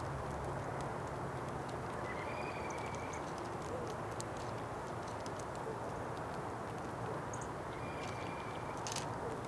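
Birds feeding: scattered small pecking clicks and taps over a steady outdoor hiss, with a short thin bird call about two seconds in and another near the end.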